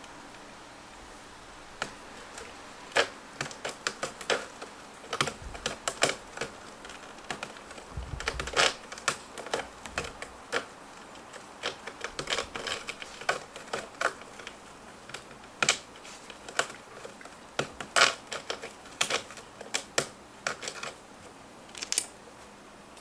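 Irregular clicking and tapping, many small hard knocks at uneven intervals, with a dull thump about eight seconds in.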